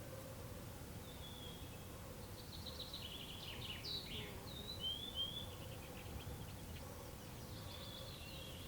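Songbird singing in a forest clearing: a series of quick chirps and short trills, busiest around the middle, over a low steady outdoor rumble and a faint hum.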